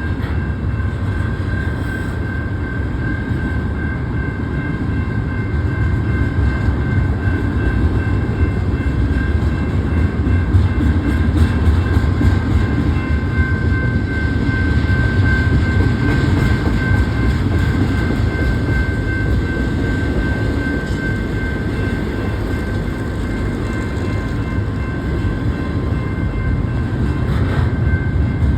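BNSF double-stack freight train rolling past: a steady heavy rumble of wheels on rail, with a thin steady high whine over it and a few faint clicks.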